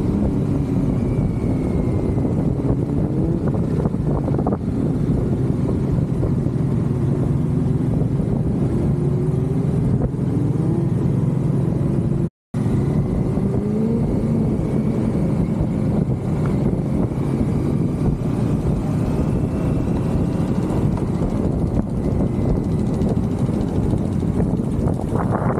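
Many motorcycle engines running together in a moving parade, several revving up and down over one another. The sound cuts out for a split second about halfway through.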